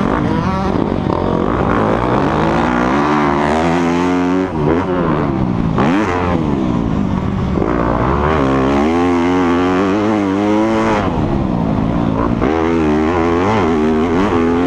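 Dirt bike engine revving hard on a motocross track, its pitch climbing and dropping over and over as the rider works the throttle through the gears.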